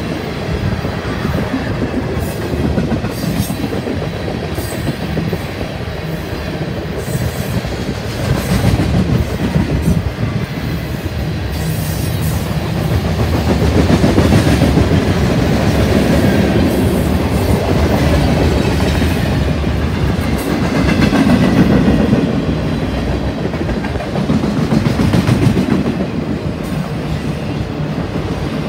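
Freight cars (tank cars, covered hoppers and autoracks) rolling past close by: a steady rumble of steel wheels on rail with repeated clicks from the wheels crossing rail joints, getting somewhat louder about halfway through.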